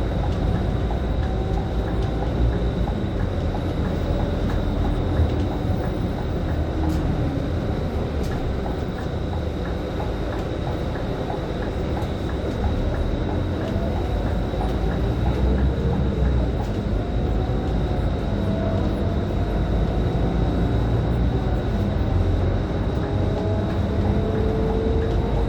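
Scania K310IB city bus on the move, heard from inside: engine and road noise with a low rumble, and a faint whine that rises and falls in pitch, rising near the end. A thin steady high tone sits over it.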